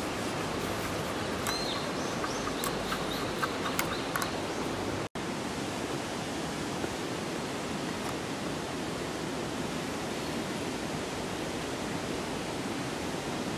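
Heavy rain falling steadily, an even rushing hiss. A few light clicks and ticks sound in the first few seconds, and the sound cuts out for an instant about five seconds in.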